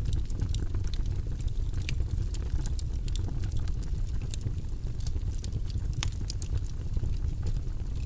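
Wood fire crackling in a fireplace: a steady low rumble of burning under frequent, irregular sharp pops and snaps.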